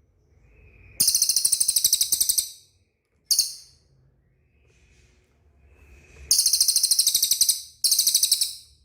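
Small songbird giving loud, very high, rapid trills in four bursts: one about a second in lasting about a second and a half, a short one after three seconds, then two longer ones close together near the end, each led in by a faint lower note.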